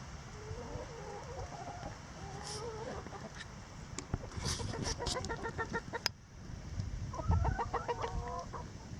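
Flock of laying hens clucking: wavering calls at first, then two runs of quick repeated clucks in the second half, with a couple of sharp clicks.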